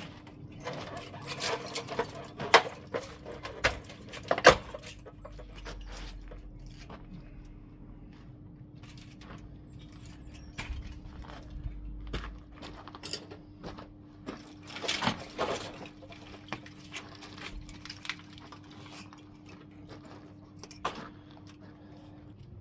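Scattered clicks, knocks and clatters of metal parts being handled, the sharpest about two and a half and four and a half seconds in, over a steady hum that cuts off near the end.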